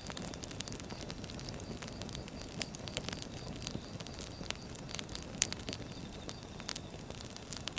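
Wood fire burning with a steady low rumble and irregular sharp crackles and pops, one louder pop about five and a half seconds in.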